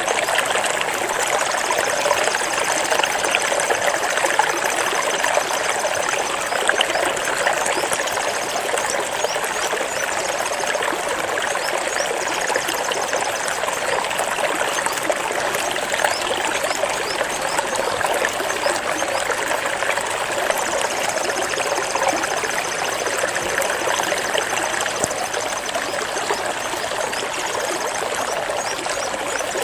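Running water from a small stream, trickling and splashing steadily, with a faint high trill at two points.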